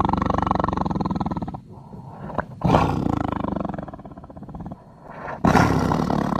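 Indochinese tiger roaring in a series of rough, pulsing roars. One roar tails off about a second and a half in, a second starts sharply near the three-second mark and fades, and a third starts sharply near the end.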